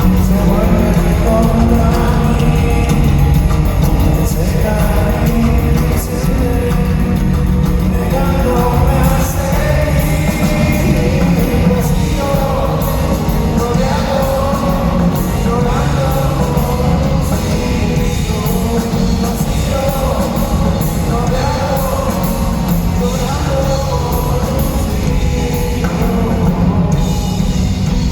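Rock band playing with a singer: electric instruments and drums over a steady, heavy low end.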